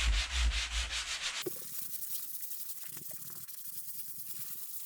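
Hand-sanding dried joint compound on a drywall patch: quick back-and-forth rasping strokes, about five a second, that stop abruptly about a second and a half in, leaving faint scratchy noise with a few light ticks.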